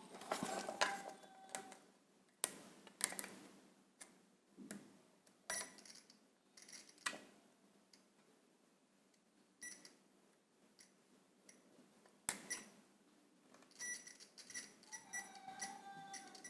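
Multimeter continuity buzzer giving scattered short beeps as its probes touch the washing machine motor's coil wires, among light clicks and taps of the probes, with a longer tone near the end. The beeps show the coil windings are intact, not broken.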